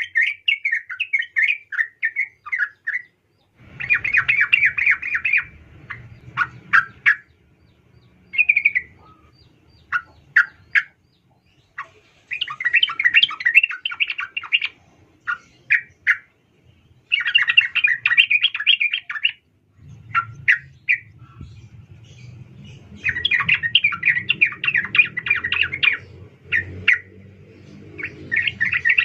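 Female sooty-headed bulbul (trucukan) calling to a male. It gives repeated bursts of rapid, chattering notes, each burst about two seconds long, with a few short single notes between them.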